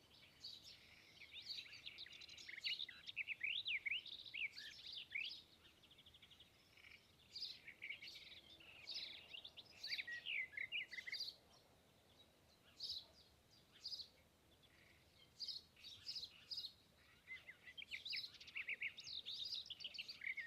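Songbirds singing faintly: clusters of quick, high chirps and short trills from several birds, with brief pauses between phrases.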